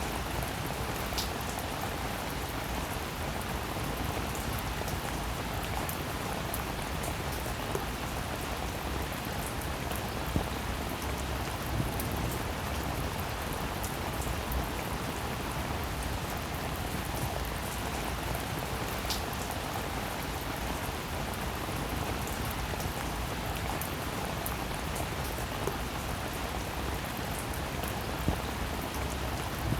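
Steady rainfall, an even hiss of drops, with now and then a single sharper drop ticking close by.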